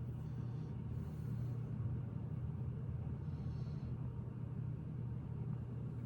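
Steady low background hum, with faint rustling of small plastic Lego pieces being handled.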